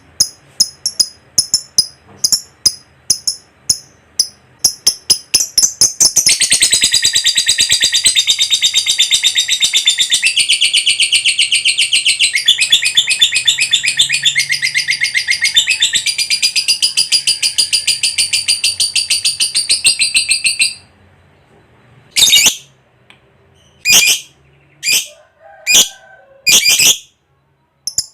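Lovebird ngekek: a run of sharp, separate high chirps, then about six seconds in a long, unbroken rapid chattering trill that lasts about fifteen seconds and cuts off suddenly. A few single calls follow near the end.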